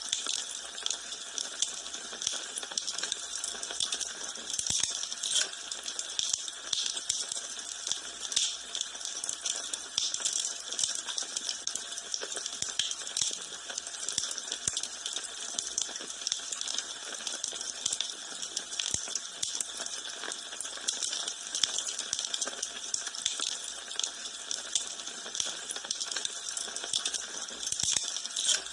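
Wood fire crackling in a fireplace: a steady hiss with many small, sharp pops and snaps scattered throughout.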